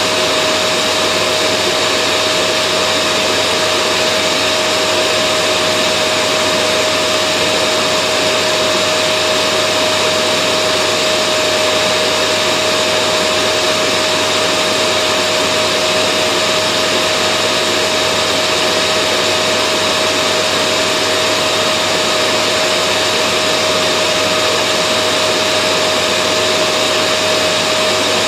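Vacuum cleaner running steadily: a constant loud rushing of air with a steady motor whine, unchanging throughout.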